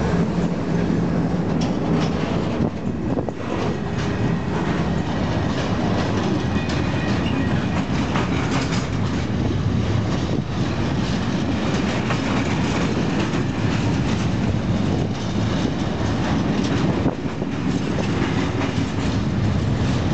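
A train of empty timber wagons rolling past close by, its wheels clattering steadily over the rail joints. The Class 56 diesel locomotive's engine hum is heard in the first couple of seconds as it draws away.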